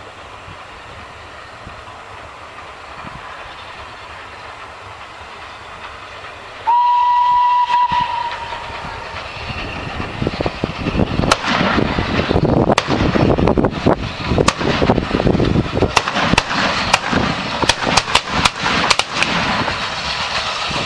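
Train running on the rails, with a steady rumble, then a single horn blast about seven seconds in, followed by louder wheels clattering over rail joints.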